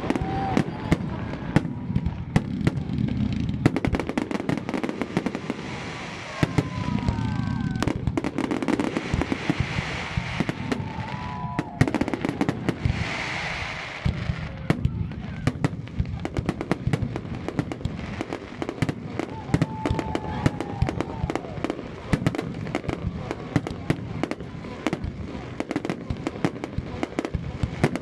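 Fireworks display: a continuous rapid run of shell bursts and crackling bangs, with a hissing crackle swelling for a moment about halfway through.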